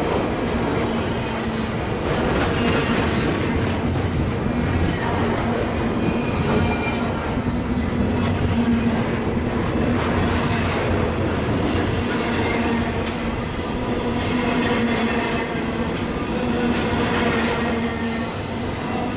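Double-stack intermodal freight train's well cars rolling past: a steady rumble of wheels on rail with a constant hum. Brief high squeals come about a second in and again midway.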